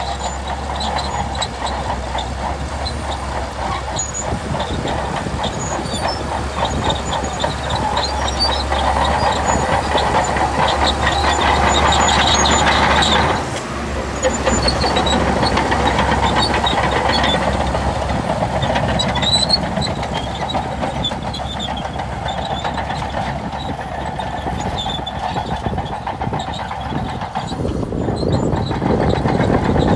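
Shantui DH17C2 crawler bulldozer working: its diesel engine runs steadily while the steel tracks clatter and squeak. The sound drops briefly about halfway through, then carries on.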